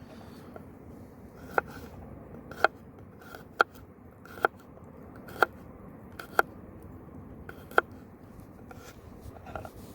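Knife striking a wooden cutting board in slow single cuts, seven sharp knocks about a second apart, each with a brief ring from the blade, over a steady low background.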